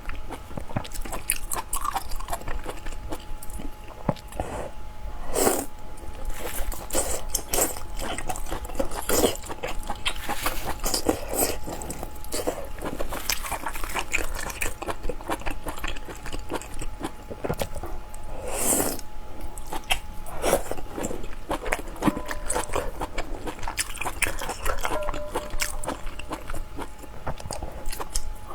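A person biting and chewing food, with many short crunches and loud bites about 5 and 19 seconds in.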